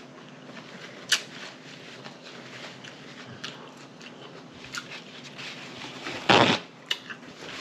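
Wet mouth sounds of chewing a cheeseburger, with sharp lip smacks and clicks every second or two. A louder burst of noise lasting about half a second comes just after six seconds in.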